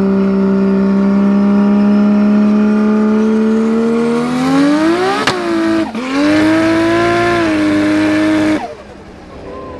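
Car engine heard from inside the cabin, held at steady revs and then revving higher. The note drops sharply about six seconds in, climbs again, and cuts off abruptly near the end.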